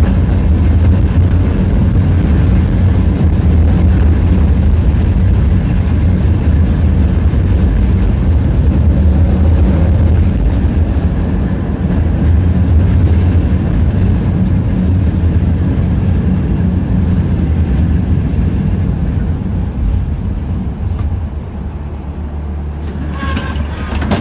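Tram running along the track, heard from inside the passenger car: a steady low rumble of motors and wheels that eases off about twenty seconds in. A short burst of clicks with a high ring comes near the end.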